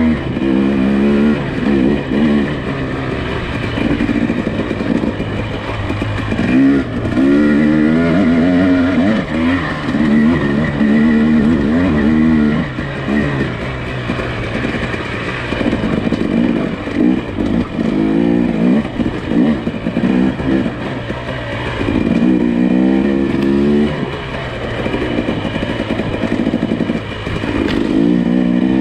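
Nissan Pathfinder SUV engine running on a trail, its revs rising and falling again and again.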